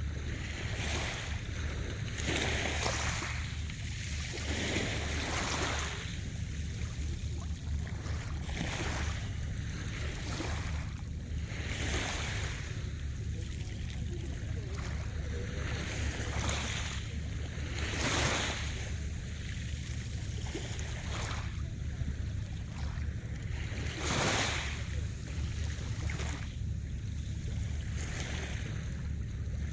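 Sea waves washing and breaking in a loose rhythm, a surge of hiss every one to three seconds, over a steady low rumble.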